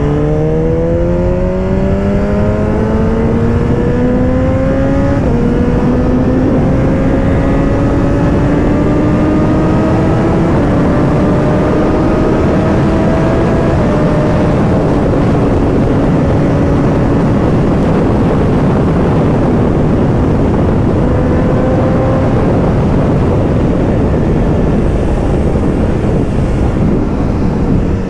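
BMW S1000RR's inline-four engine pulling hard, its pitch climbing, dipping briefly at two upshifts about five and ten seconds in, then holding roughly steady at speed, under heavy wind noise.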